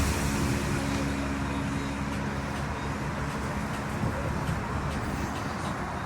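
An engine idling with a steady low hum over a constant wash of background noise. The engine's hum fades out about four seconds in.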